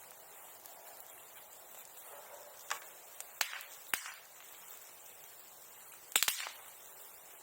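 Bonfire popping: four sharp cracks from the burning wood and tools, spaced irregularly. The last and loudest is a double crack near the end.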